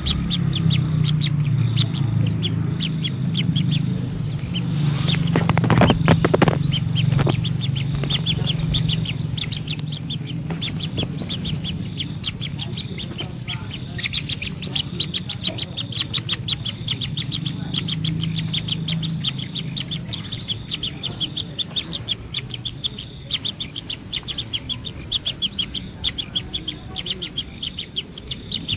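Birds chirping in a rapid run of short high chirps, several a second, growing denser about halfway through, over a low steady hum. A few brief knocks or rustles come about six seconds in.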